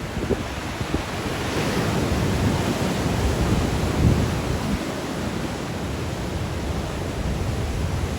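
Sea waves breaking and washing on the shore in strong wind, with wind buffeting the microphone in a low, gusty rumble. A breaker's hiss swells up about one and a half seconds in.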